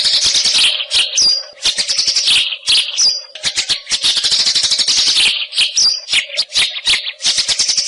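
White-rumped shama (murai hutan) singing a fast, scratchy chattering song in repeated phrases, broken by short high whistled notes about a second in, three seconds in and near six seconds. A faint steady hum lies under it.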